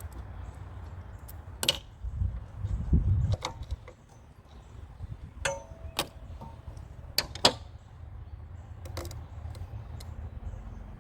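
Scattered clicks, knocks and metallic clinks of hand tools and metal engine parts being handled, one clink ringing briefly about five and a half seconds in, with a low rumble of handling about two to three seconds in.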